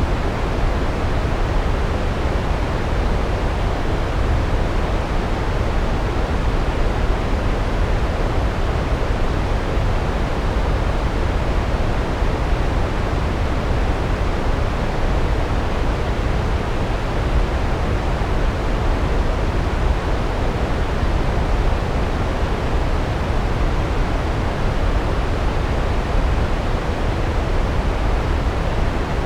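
Large waterfall, water pouring down over rocks in a steady, unbroken rush, heaviest in the deep low end.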